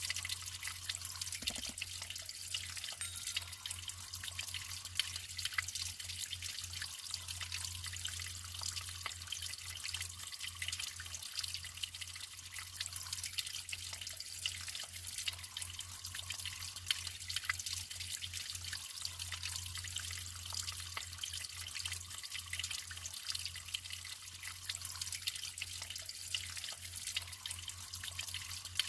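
Natural running water trickling and splashing steadily, a dense patter of many small drips and splashes, with a faint low hum underneath.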